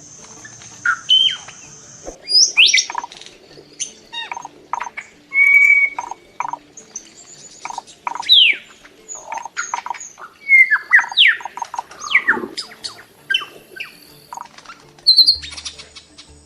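Assorted birds calling: short chirps, squawks and sharp falling whistles in quick succession, over soft background music.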